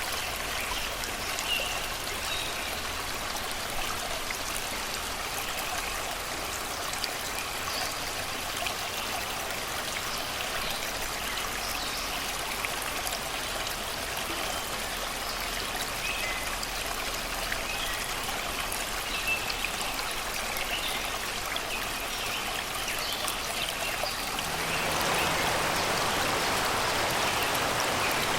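Shallow river water flowing and babbling over rocks, with birds singing faintly now and then. About 25 seconds in, the water becomes louder and fuller.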